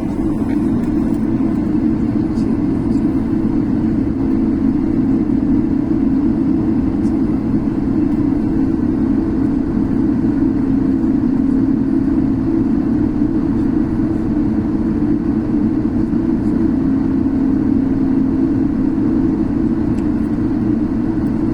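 Steady, unbroken drone of a Korean Air jet airliner's engines, a strong low hum over a rumble.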